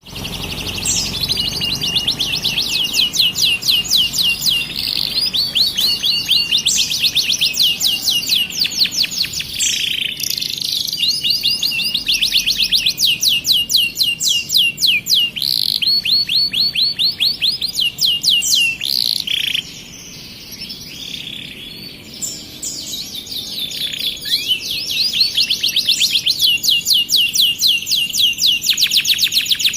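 Starblue canary singing a long, continuous song of fast, high trills, with a quieter break about two-thirds of the way through before the trilling picks up again.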